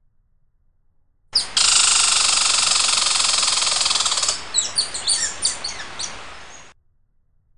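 Songbirds calling: a steady, fast high trill for about three seconds, then a string of quick high chirps that drop in pitch. The sound starts suddenly and cuts off abruptly.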